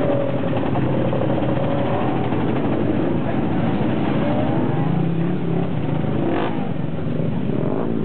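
Motorcycle engines running, with some revving.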